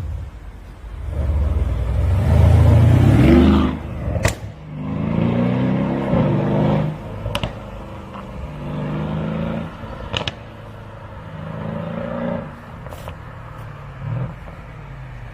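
Mercedes-AMG S63 Coupe's twin-turbo V8 through an aftermarket variable-valve exhaust with sport resonator, accelerating hard with rising pitch. It then pulls in several shorter bursts, with a sharp exhaust crack between them, about three times.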